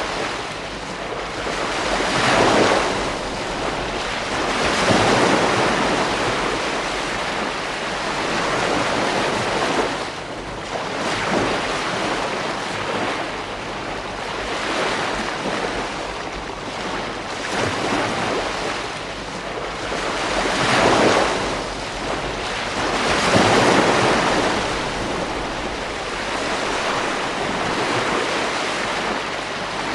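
Ocean surf washing onto a beach: a continuous rush of water that swells louder every few seconds as each wave breaks.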